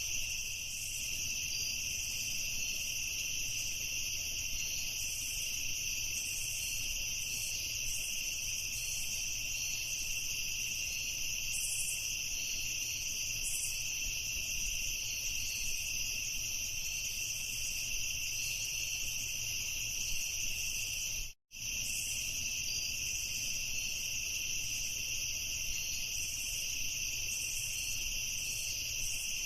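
Chorus of crickets chirping, a steady high-pitched trilling that keeps an even level. It cuts out completely for a split second about twenty seconds in.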